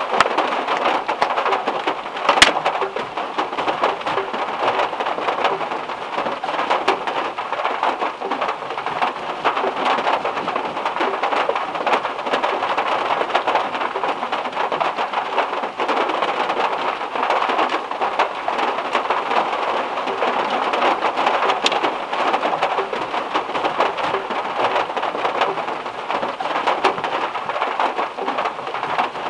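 Heavy rain falling on a small car's metal roof, heard from inside the car: a dense, steady patter of drops, with one sharp tick about two seconds in.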